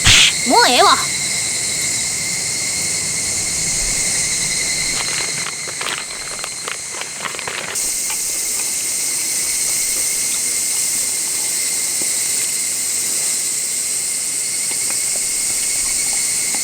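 Insects chirring steadily over a hiss of outdoor ambience, their song holding at a few high pitches. A short wavering whistle-like sound comes in the first second, and a few faint clicks follow in the middle.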